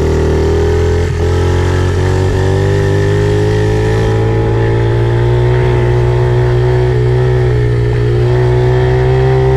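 Pit bike engine running at a fairly steady speed, picked up close by a phone mounted on the bike, with a brief dip in engine speed about a second in.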